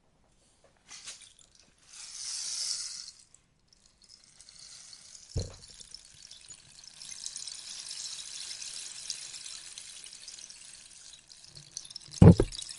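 Rainstick being tipped, its pellets cascading inside in a soft, rain-like patter that swells briefly early and then runs steadily. Two knocks from the tube being handled, the louder one near the end.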